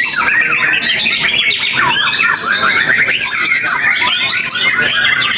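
Several white-rumped shamas (murai batu) singing at once: a dense, unbroken tangle of whistles, trills and sweeping notes.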